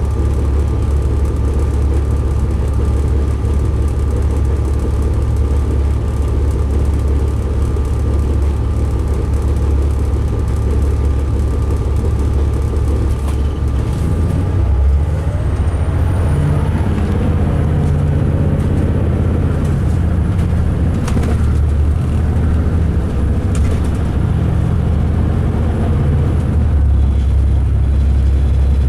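2005 MCI D4500 coach's diesel engine heard from inside the cabin: a loud, steady low rumble, rough-running, that rises in pitch about halfway through as the coach accelerates.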